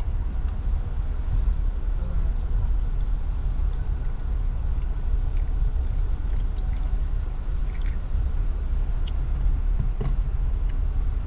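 Steady low rumble of a truck's engine and running noise, heard from inside the cab, with a few faint clicks.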